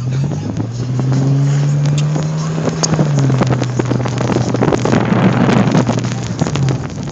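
A car driving, heard from inside the cabin. A low engine hum rises in pitch in the first second, holds, then settles back about three seconds in, over road noise with many short crackles.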